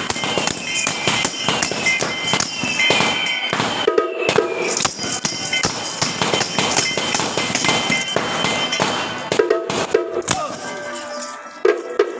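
Strings of firecrackers crackling rapidly, thinning out after about nine seconds, over the clanging percussion music of a temple procession.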